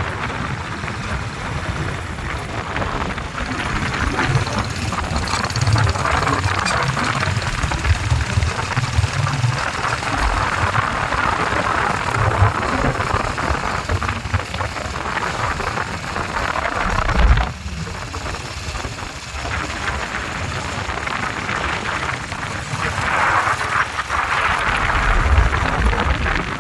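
Wind rushing and buffeting over the microphone of a moving motorcycle, with the bike running under it; the noise briefly drops off about 17 seconds in.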